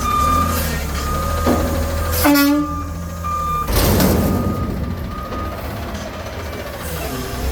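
Garbage truck's engine running with its backup alarm beeping in a steady high tone. A short pitched blare sounds about two seconds in, and a loud burst of hiss comes just before the midpoint.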